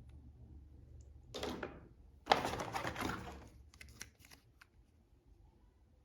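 Faint rustling and clicking of something being handled: two short bursts, one about a second and a half in and a longer one just after two seconds, with a few scattered clicks.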